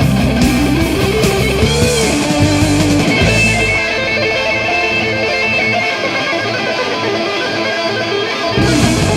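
Instrumental passage of a 1980s heavy metal demo recording, led by electric guitar. About three and a half seconds in, the bass and drums drop out and the guitar carries on alone with held notes. The full band comes back in just before the end.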